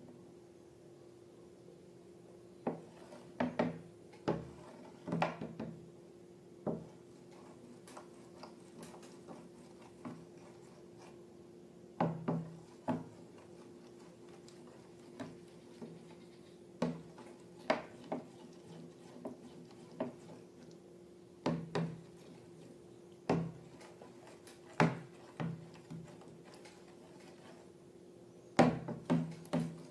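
Irregular taps and clicks from handling slime-making materials, coming singly or in quick clusters of two or three, over a steady low hum.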